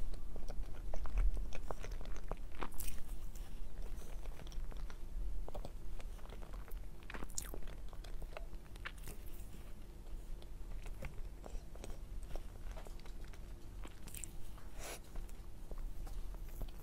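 Close-miked eating of soft matcha sponge cake: bites and chewing with many small mouth clicks, loudest in the first few seconds.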